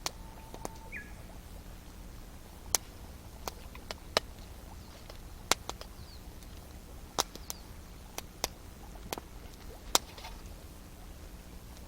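Wood campfire crackling, with irregular sharp pops about once a second over a steady low background.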